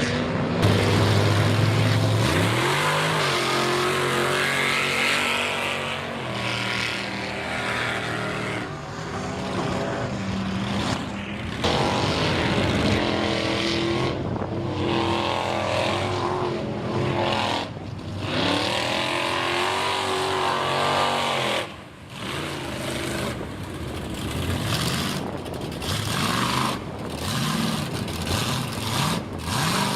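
High-horsepower mega mud truck engines on open headers, revving hard again and again as the truck powers through deep mud, the pitch climbing and dropping with each throttle blip.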